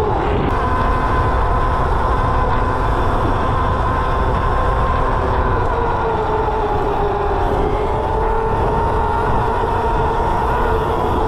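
Electric mini bike's motor whining steadily while riding, its pitch dipping slightly and climbing back near the middle as the speed changes, over low rumble from wind and road.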